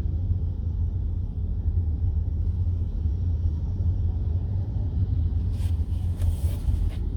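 Steady low rumble of a car driving, heard from inside the cabin, with a few short hissing sounds near the end.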